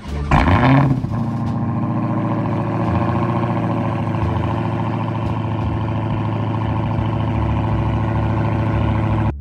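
Dodge Hellcat's supercharged 6.2-litre Hemi V8 starting up through its stock exhaust with resonators still fitted: a loud, brief rising flare under a second in, then a steady idle.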